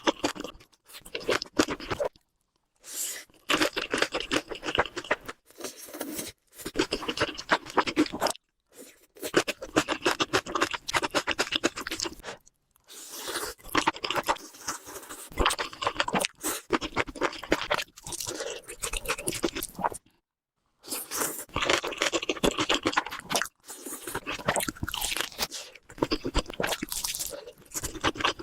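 Close-miked eating sounds: food crunching and being chewed in dense, rapid runs of crackles, broken by several short silent gaps.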